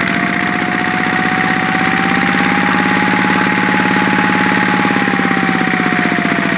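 Engine running at raised revs with a thin, turbine-like whine riding over it, rising slightly in pitch and easing back down near the end. The owner suspects a crankshaft bearing at the flywheel end, or perhaps a gear, inside the engine.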